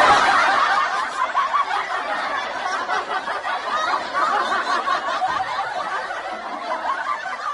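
Many people laughing together, like a canned laugh track, running on without a break and easing slightly in level.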